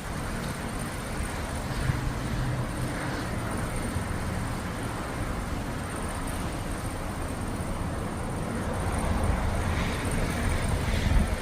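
Low rolling thunder rumbling on without a break, swelling again near the end.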